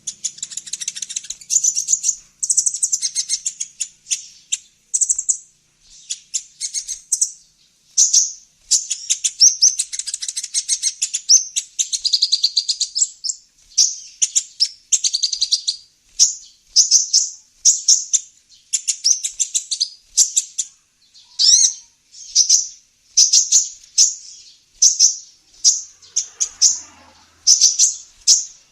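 Female olive-backed sunbird calling: high, rapid trilled chirping phrases, then from about halfway single sharp chirps repeated roughly once a second.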